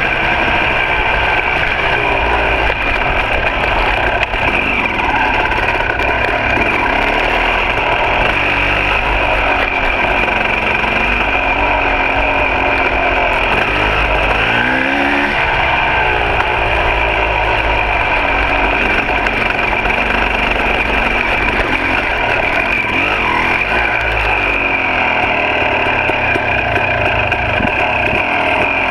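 2006 KTM 300 XC two-stroke dirt bike engine being ridden, revving up and falling back again and again as the throttle opens and closes.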